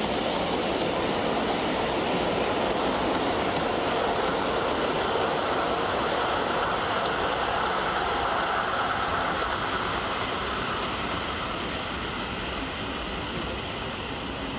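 Train running past, a steady rushing rumble of wheels on rails that begins to fade about ten seconds in.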